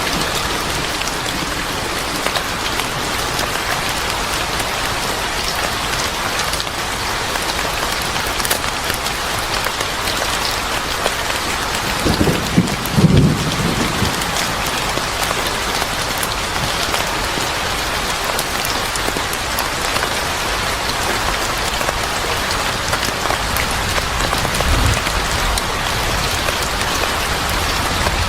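Steady heavy rain falling on a surface, with a few brief low rumbles about halfway through and once more near the end.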